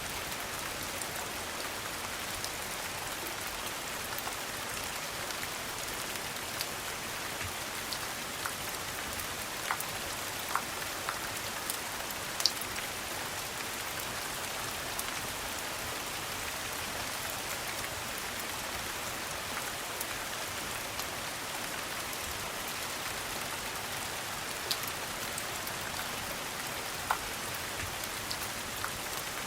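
Steady rain falling in an even hiss, with scattered single sharp ticks and pops, one standing out about halfway through.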